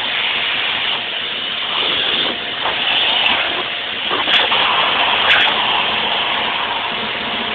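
Vacuum cleaner running with a steady loud hiss, with a couple of short clicks or knocks about halfway through.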